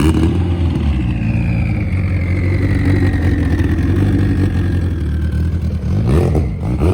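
Car engine running steadily, with a high whine that slowly falls in pitch, and the engine note rising and falling near the end.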